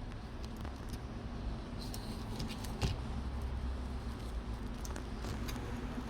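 Plastic playing card scraping and ticking against the phone's frame as the iPhone 15 Pro back glass is prised away from its adhesive, in scattered small clicks over a low background hum.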